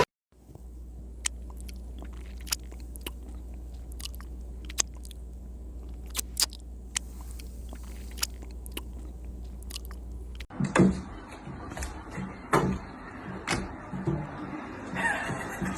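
Chewing and crunching: sharp irregular clicks over a steady low hum. About ten seconds in the sound cuts to a busier stretch of knocks and thumps.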